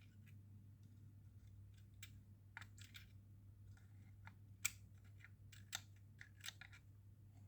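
Faint, irregular small clicks and taps, like small parts or tools being handled, over a low steady hum. The sharpest click comes a little past halfway.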